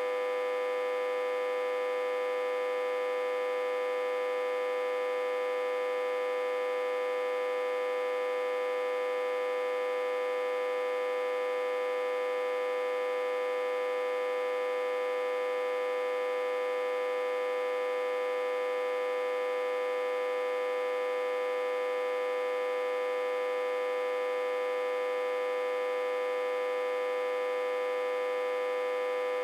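Autotransformer humming, reverse-connected to a step-down transformer and fed about 60–80 V. It holds one steady, unchanging pitch with many overtones.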